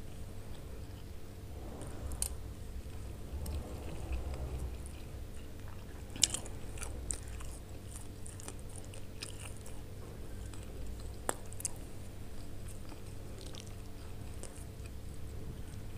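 Close-miked eating sounds: chewing and biting mouthfuls of roasted pasta and chicken, with a few sharp clicks of a metal spoon against the plate.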